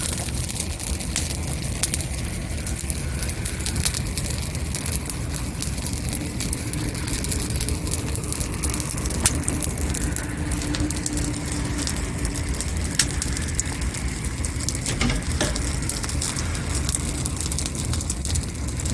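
Wood fire crackling and popping, with frequent small snaps and a few louder pops over a steady low rumble.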